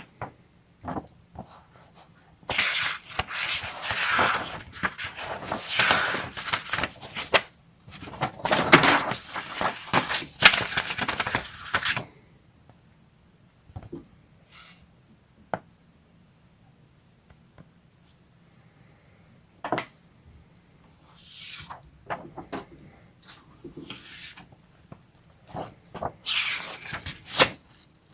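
Fan heater packaging being handled during unboxing: a long stretch of rustling and crinkling, then scattered clicks and knocks, with more rustling near the end.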